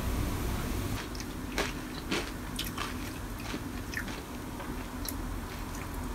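Cornflakes in milk being crunched and chewed close to the microphone: irregular crisp crunches starting about a second in, after a low steady hum.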